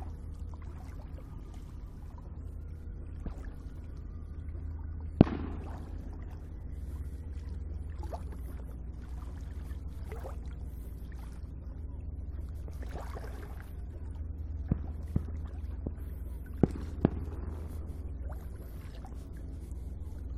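Fireworks going off at a distance over water: one sharp bang about five seconds in, then a cluster of smaller bangs near the end, each trailing off in a short echo. Under them runs a steady low rumble with water sloshing close by.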